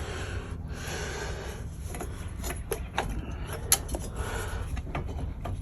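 Hand-tool work on a quad bike's engine: scattered metal clicks and scraping as a spanner and loosened parts are handled, with one sharper click about two-thirds of the way through.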